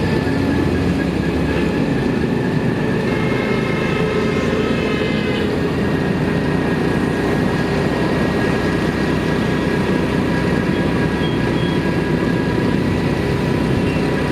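Motorcycle riding noise: the engine running steadily under road noise.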